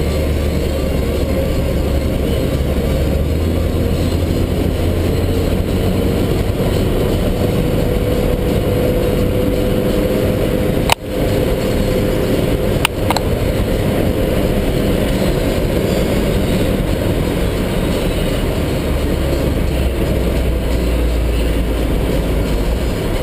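Jaguar's engine running hard at racing speed, heard from inside the cabin with steady road and wind noise. Near the middle come two sharp knocks about two seconds apart.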